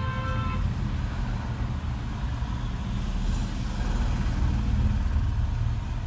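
Mahindra Jeeto diesel engine idling, a steady low rumble.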